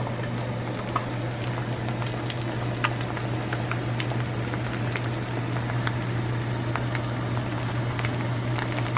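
A steady low hum under a crackling, sizzling hiss with scattered sharp ticks.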